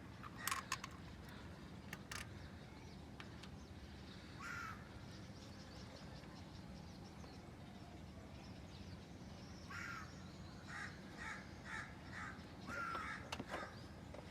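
A bird calling: one short call about four seconds in, then a run of about six short calls near the end, over a steady low hum. A few sharp clicks sound near the start.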